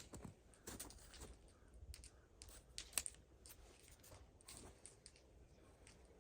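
Quiet handling noise: scattered light clicks and taps, with a sharper click at the start and another about three seconds in.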